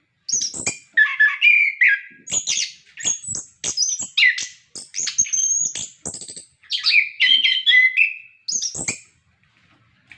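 Chestnut-capped thrush in full song: a fast, varied run of whistled and chirping phrases, one after another with only short breaks, stopping about a second before the end.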